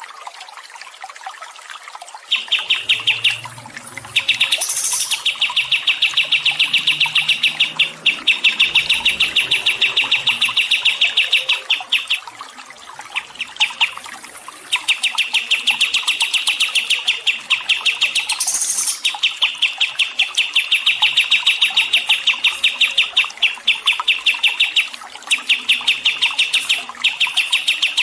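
Songbird singing long, very fast trills in bouts of several seconds with short breaks, and a brief higher sweeping note twice.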